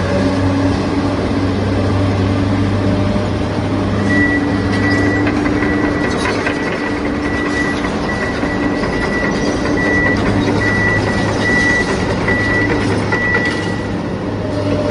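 Remote-control toy construction vehicles running with a steady mechanical drone. From about four seconds in until near the end, a high beep repeats more than once a second, like a reversing alarm.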